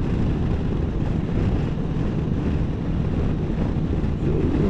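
Wind rushing over the microphone with the steady drone of a Can-Am Spyder three-wheeled motorcycle running at road speed, an even low-pitched noise without distinct events.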